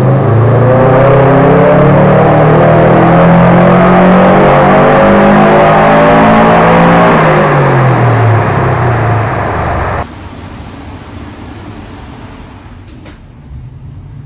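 Subaru Impreza STI's turbocharged flat-four running flat out on a rolling-road dyno. The revs climb steadily for about five seconds, hold, then fall away as it lifts off. This is the power run that recorded about 310 bhp at the flywheel. About ten seconds in, the engine sound cuts off suddenly to a much quieter background.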